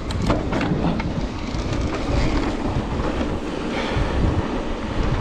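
Mountain bike riding fast down a rough dirt trail: wind rushing over the camera microphone, with tyre noise and the bike rattling and knocking over bumps, the clicks thickest in the first second or two.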